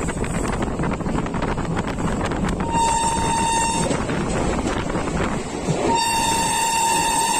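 Passenger train running at speed, a steady rumble of wheels on rails heard from an open coach doorway. The locomotive's horn sounds a short blast about three seconds in and a long, steady blast from about six seconds in.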